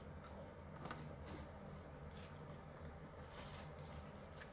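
Faint eating sounds: scattered soft clicks and smacks of a person chewing, then biting into a longganisa sausage near the end.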